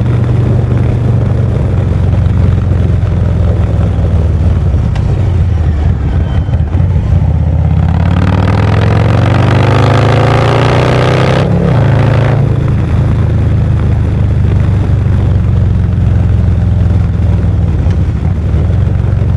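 Harley-Davidson Low Rider ST's Milwaukee-Eight 117 V-twin running under way, heard close to the exhaust. About eight seconds in the engine pulls harder and its pitch climbs for a few seconds, then drops back at about twelve seconds and settles into a steady cruise.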